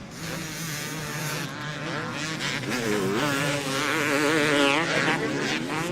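Motocross motorcycle engines revving on the track, their pitch rising and falling as riders work the throttle, loudest about four seconds in.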